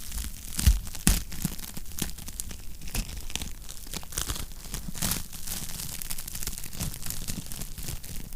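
Wood fire in a fireplace crackling steadily, with many small pops and two louder snaps about a second in.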